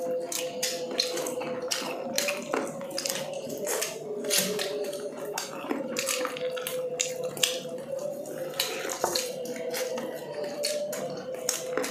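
Close-miked chewing and wet lip-smacking of people eating grilled chicken and rice with their hands: a fast, irregular run of sharp clicks and smacks over a steady hum.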